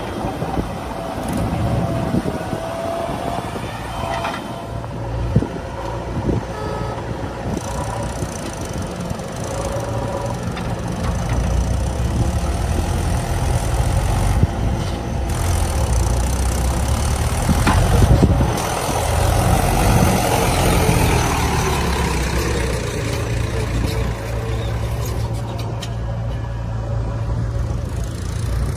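Heavy diesel engine running, its low rumble building up about a third of the way in and heaviest a little past the middle, with a few sharp knocks.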